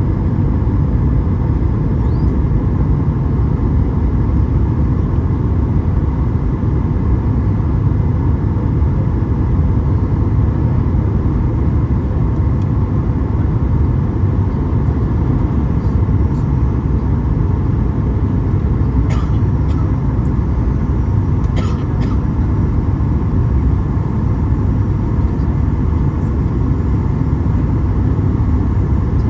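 Steady, loud cabin noise inside a Boeing 737 MAX 8 airliner in flight, a low rumble of engines and airflow. A couple of brief clicks occur about two-thirds of the way through.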